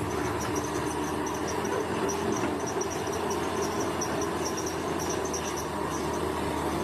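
Insects chirping in quick, high pulses over the steady drone of a bulldozer's diesel engine.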